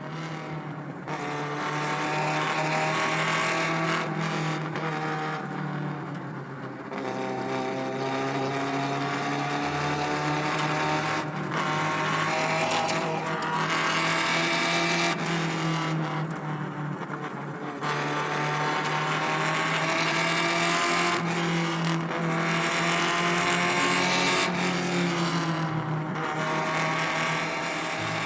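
Alfa Romeo Spider Veloce's rebuilt 1750 twin-cam four-cylinder engine accelerating through the gears. The pitch rises in about five climbs, each broken by a short dip at a gear change.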